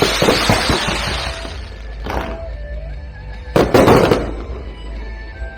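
Fireworks going off: sharp bangs, each followed by crackling. One crackles on for about a second and a half at the start, a smaller one comes about two seconds in, and a loud one comes about four seconds in. Music plays faintly underneath.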